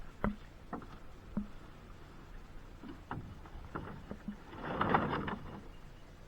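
A hollow plastic pool being handled in shallow creek water: irregular knocks, about seven over the first four and a half seconds, then a brief burst of splashing and scraping about five seconds in.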